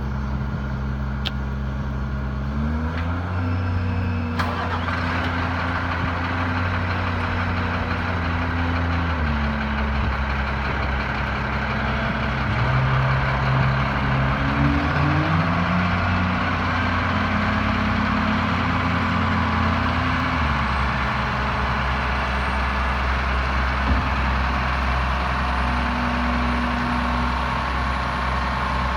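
Diesel engine of a 2012 Freightliner M2 106 dump truck running at idle. It speeds up to a higher steady speed twice, from about 3 s to 9 s and from about 12 s to 20 s, and drops back to idle each time.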